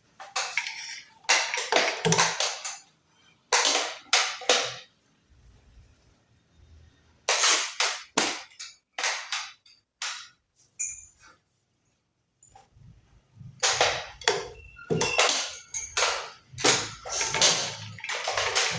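Irregular clusters of sharp metallic knocks and clatters from a Merritt small sewing machine, with short quiet gaps between them.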